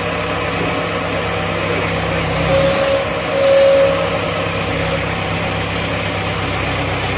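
Mahindra Arjun diesel tractor engine running steadily, its note shifting a little about three seconds in. A brief higher steady tone sounds twice near the middle.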